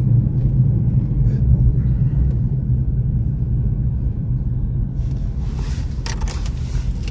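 Steady low rumble of a vehicle's engine and running gear heard from inside the cab, with a hiss joining about five seconds in.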